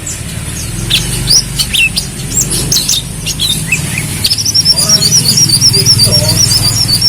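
Kolibri kelapa sunbird singing: sharp high chirps and quick down-sweeping notes, then a fast, wavering high trill from about four seconds in. A low steady hum runs underneath.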